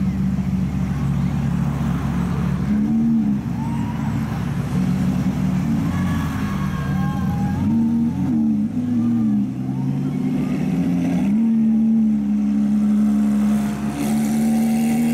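Lamborghini supercar engines, a Huracán STO's V10 and an Aventador's V12, running at low revs as the cars pull away slowly. A few short throttle blips come through, and a steady engine note holds near the end.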